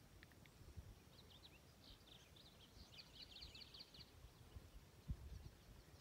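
Near silence with faint high bird chirps and a quick trill between about one and four seconds in, over a low rumble on the microphone, with one soft low thump about five seconds in.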